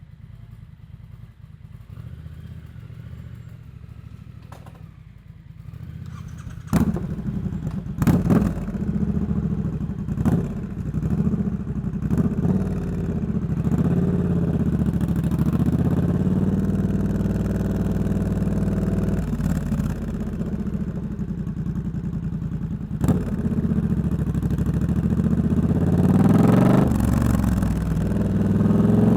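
Triumph Scrambler 1200 X parallel-twin engine through a loud Hitchcox aftermarket exhaust. It idles low for about six seconds, then revs and pulls away, running hard with its pitch rising and falling through several gear changes and building again near the end.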